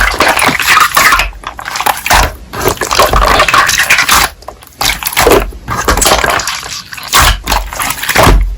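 Slime being squeezed and pressed by hand, a loud irregular run of wet squelches, crackles and pops.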